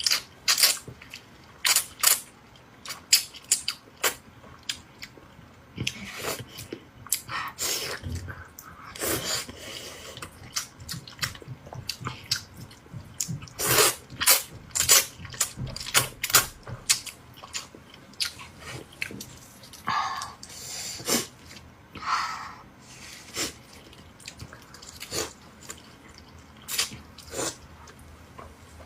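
Close-miked eating: slurping rice noodles and chewing, with irregular wet smacks and short slurps and a few longer slurps along the way.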